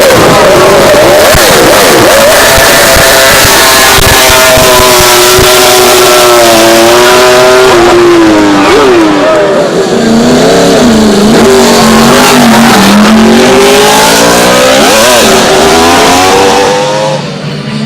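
Several racing motorcycle engines running very loud at full song, their overlapping notes rising and falling as they rev up and shift through the gears while passing. Near the end the sound drops away abruptly.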